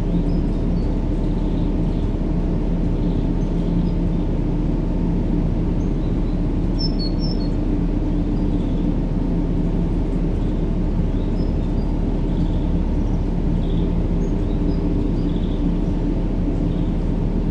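Steady low rumbling drone of a sleep-noise track, deep and even with a faint hum, with faint high bird chirps now and then, clearest about seven seconds in.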